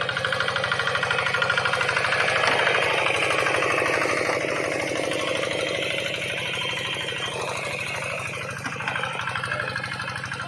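The engine of a modified rice-paddy tractor, fitted with a driver's seat, running with a rapid, even knocking beat. It is loudest a couple of seconds in, then slowly fades.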